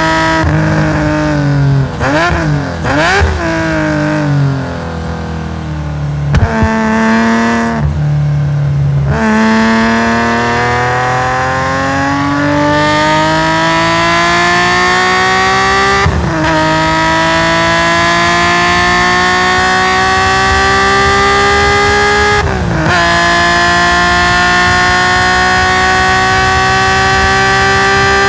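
Nissan S20 twin-cam straight-six of a race-tuned Hakosuka Skyline GT-R, heard on board through a stainless equal-length exhaust. Early on the revs fall and jump in short blips, as when slowing with downshifts. It then accelerates hard, the pitch climbing steadily, with quick upshifts about halfway through and again a few seconds from the end.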